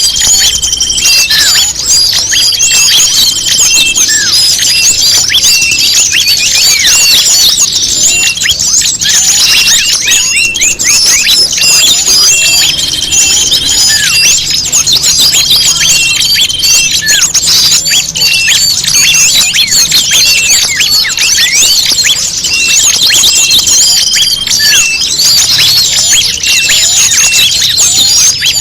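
Bird-lure recording of small songbirds calling: a dense, unbroken mass of high chirps and twitters. A short steady whistle cuts through every few seconds.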